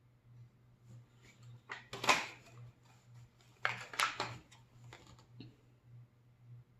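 Small plastic toy packaging being handled and opened by hand, two short bursts of crinkling and crackling with a few lighter clicks, over a low steady hum.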